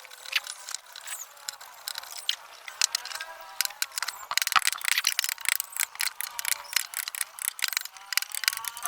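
Rapid, irregular clicks and knocks, like tools being worked on wood, with faint gliding pitched tones underneath.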